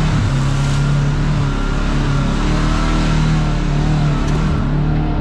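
Kawasaki KRX side-by-side's parallel-twin engine running steadily as the vehicle crawls along a trail, its note dipping and picking back up a little, over a steady hiss.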